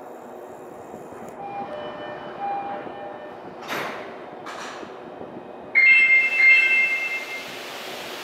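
Odakyu 5000 series electric train pulling out of the station platform, a steady rumble. Two short hisses come about halfway through, and a sudden louder hiss with high ringing tones sets in near the end.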